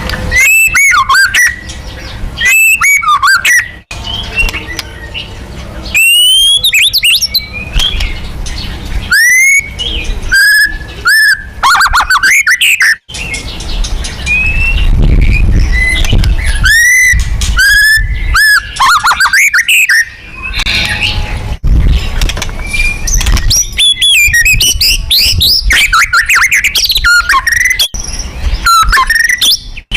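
White-rumped shama (murai batu) singing loudly in rapid, varied phrases of rising and falling whistles mixed with harsh chattering notes, broken by brief pauses.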